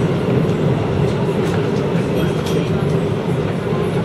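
Chiba New Town Railway 9000-series electric train running at steady speed, a continuous rumble of wheels on rail with motor noise, heard from inside the leading car.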